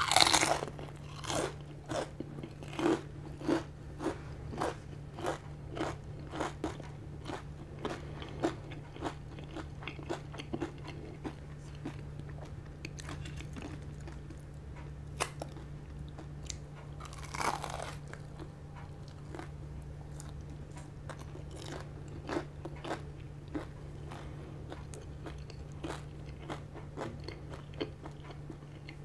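Close-up crunching and chewing of crispy deep-fried pork knuckle skin (crispy pata): a loud bite at the start, then a run of crisp crunches that thin out after about ten seconds into slower, scattered chewing.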